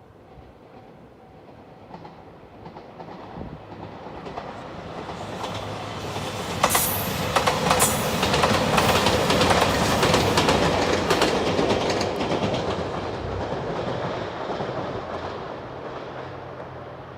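Limited express train passing close by at a level crossing. It comes in with a rising rumble, and its wheels click rapidly over the rail joints as it goes past in the middle. It then fades as it draws away.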